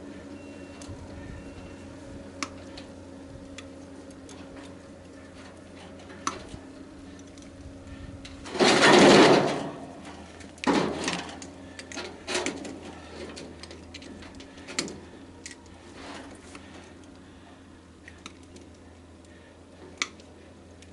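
Hand work dismantling a tanning bed: scattered clicks and knocks of tools and metal parts over a steady hum, with one loud clattering scrape about nine seconds in and a few smaller knocks after it.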